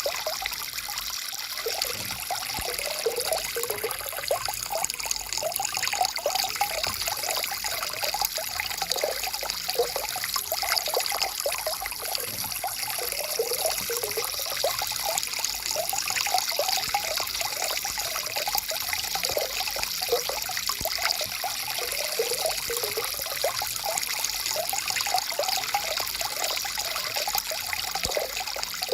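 Forest stream flowing over rocks: a steady rushing hiss with continuous bubbling and gurgling trickles.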